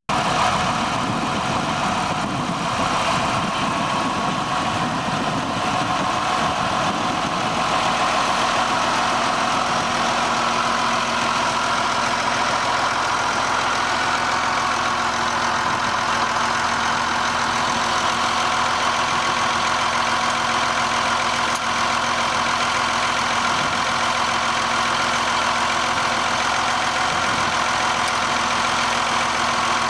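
Ford TW-30 tractor's six-cylinder turbo diesel engine running steadily, a little rougher for the first several seconds, then settling into a steady hum.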